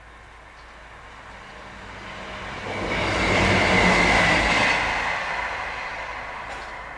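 Diesel multiple-unit passenger train passing at speed: a rushing, rumbling noise of wheels on rails and engine that swells over a couple of seconds, peaks about four seconds in, then fades as it goes by.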